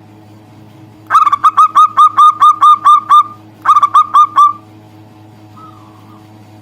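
Zebra dove (perkutut) calling: a fast run of about ten short, clipped cooing notes, a brief pause, then five more, loud and close. A faint steady hum runs underneath.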